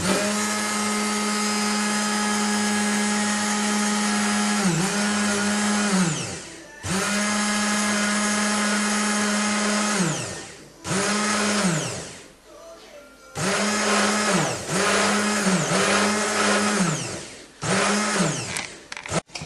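Electric blender motor running in bursts, each run a steady whir that falls in pitch as the motor spins down when switched off. It makes a few long runs and then, in the second half, a series of short quick pulses, blending oil into egg to emulsify homemade mayonnaise.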